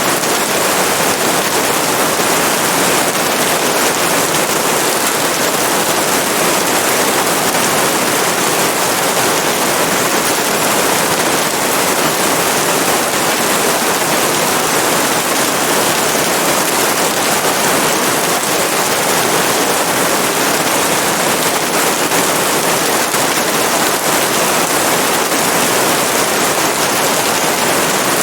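Steady rain: a loud, even hiss that does not change.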